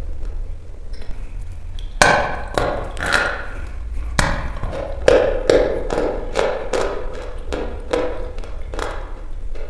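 Dry chalk being bitten and chewed: a sharp crunch about two seconds in, then a run of crisp crunches roughly two to three a second.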